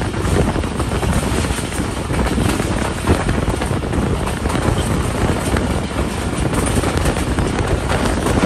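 Wind buffeting a microphone held out of a moving passenger train, over the steady running noise of the coaches' wheels on the track.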